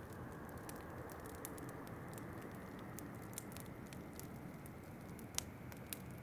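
Wood fire crackling in a fireplace, with frequent small sharp pops and one louder pop about five seconds in, over a steady rushing noise of wind.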